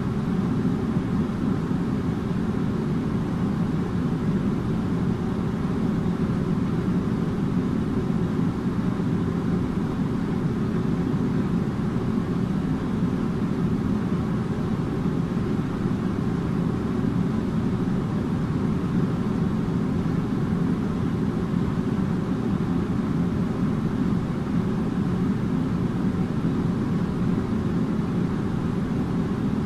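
Air conditioner running steadily: an even, low-pitched drone of fan and airflow noise with a faint steady hum, unchanging throughout.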